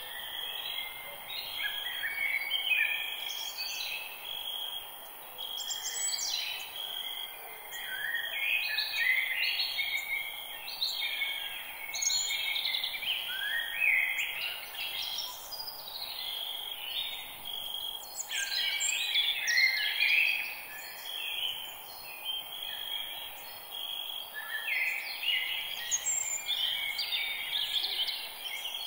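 Forest birds chirping and singing, many short overlapping calls one after another, over a steady high-pitched hiss.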